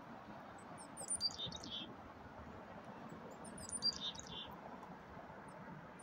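A small bird calling twice, about two and a half seconds apart; each call is a quick run of high notes that drop into a few lower notes. A steady low background noise runs underneath.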